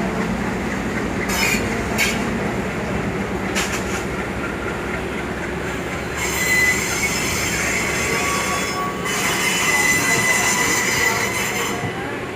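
Electric suburban train (EMU) running into a station: a steady rumble with a few knocks from the wheels, then a high squeal of steel wheels on the rails in two spells from about six seconds in.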